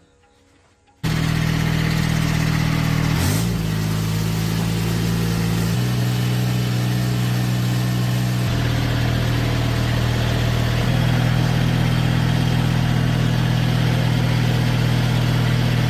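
Rebuilt old tractor engine running steadily at a constant speed, showing that the repaired engine runs. It starts abruptly about a second in, its pitch bends briefly a couple of seconds later, shifts slightly a few more times, then cuts off sharply.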